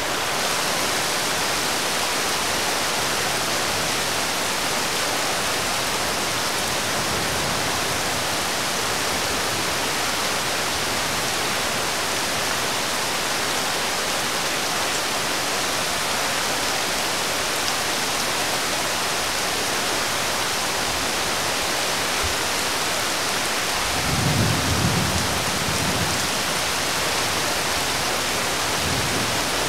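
Steady rain falling, an even hiss of rain on the road and roofs. A brief low rumble rises about 24 seconds in, with a weaker one near the end.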